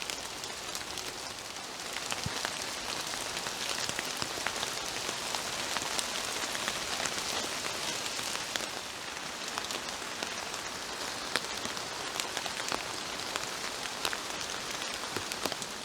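Steady gentle rain falling in woodland, with many separate drips pattering onto leaves and the ground around.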